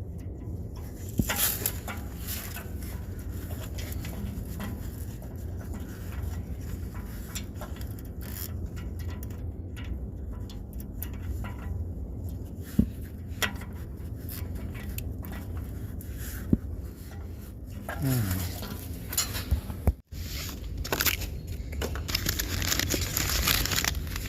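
Scattered light clicks and metal clinks of hand tools working on the truck's starter bolts, over a steady low hum. There is a short break about 20 seconds in, followed by denser crackling.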